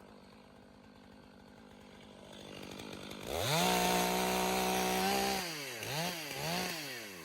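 Chainsaw idling quietly, then throttled up to full speed and held for about two seconds before dropping back, followed by two short blips of the throttle.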